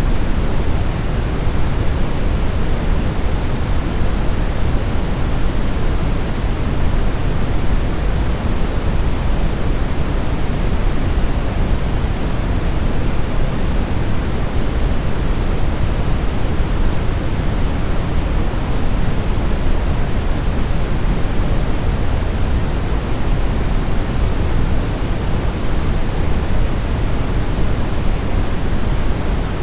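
Steady brown noise: a deep, even hiss weighted toward the low end, with no changes or events.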